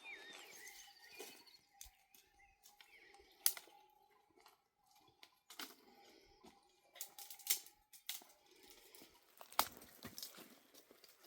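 Horse hooves stepping on stony ground: irregular sharp knocks, louder a few times, over a faint steady whine.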